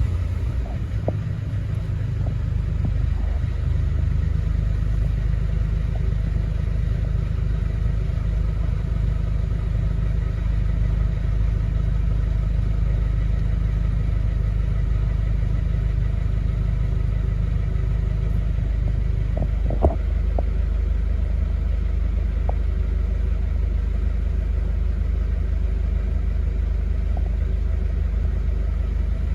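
Mercedes OM651 four-cylinder common-rail diesel idling steadily just after a start, running smoothly with no roughness. About twenty seconds in there is a single brief click and a slight shift in the idle note.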